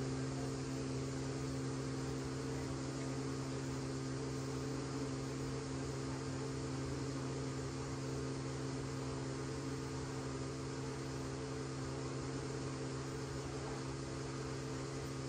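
Powder coating equipment running: a steady electrical hum with a constant hiss of air, unchanging throughout.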